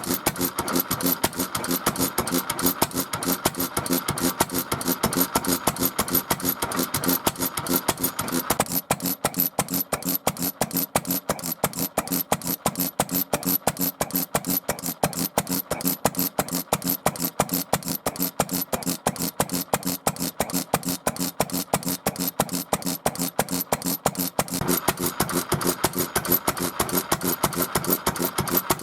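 Small engine running on test with a newly replaced ignition condenser, firing in a rapid, even beat. About a third of the way in its tone turns thinner, and it comes back fuller near the end.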